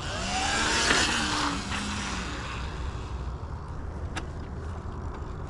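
A motor vehicle passes close by, its pitch gliding as it goes and loudest about a second in, then fades to a steady low rumble; a single sharp click near the end.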